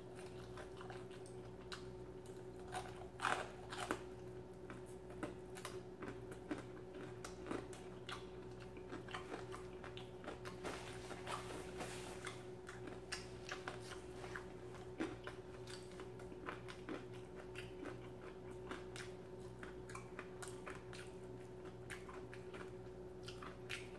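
Close-miked chewing and biting of fried chicken wings, with many small wet smacks and crunches scattered throughout. A napkin rustles about halfway through, all over a faint steady hum.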